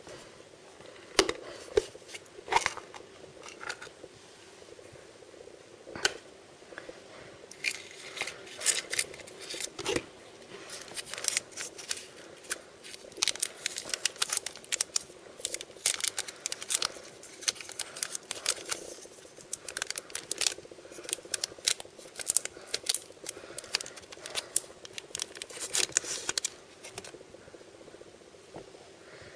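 Plastic surprise packaging being handled and opened by hand: a few separate clicks, then from about seven seconds in a long stretch of dense crackling and snipping clicks that stops shortly before the end, over a faint steady hum.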